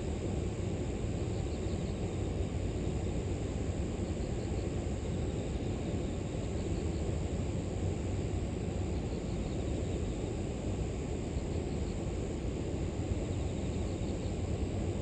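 River water flowing, a steady low rush with no breaks, with faint insects chirping high above it.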